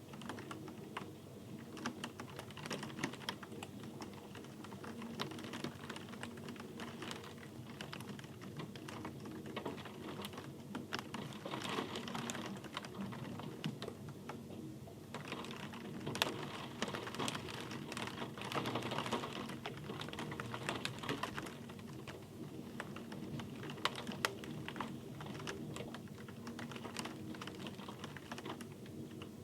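Rain falling, its drops hitting a surface as a dense, irregular stream of sharp ticks over a steady hiss. It grows denser twice in the middle, then eases again.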